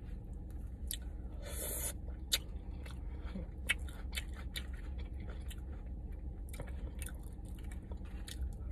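Close-miked chewing and biting of food, with many irregular small wet clicks and soft crunches over a steady low hum.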